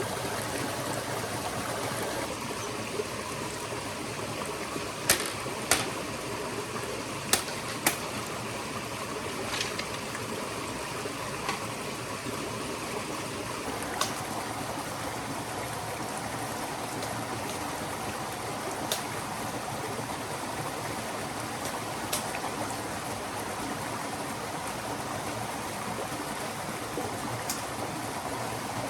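A stream flowing steadily, with a scattering of short sharp clicks or knocks on top, the loudest being two pairs about five and seven seconds in.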